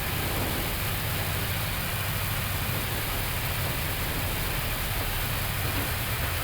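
Steady flight-deck noise of an Airbus A321neo slowing on the runway after landing, engines at idle reverse with manual braking: an even hiss over a low rumble.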